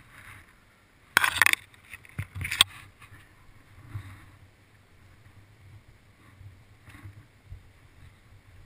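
Dirt bike engine running low and steady in the background, with two short loud bursts of noise about one and two seconds in, the second ending in a sharp knock.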